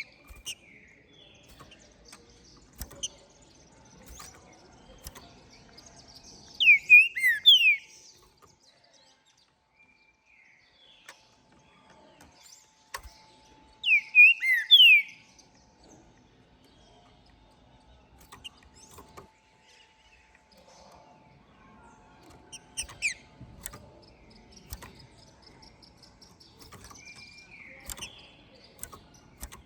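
Green-winged saltator (trinca-ferro) singing: two short, loud phrases of slurred whistled notes, about seven seconds apart, followed by a few faint softer notes near the end.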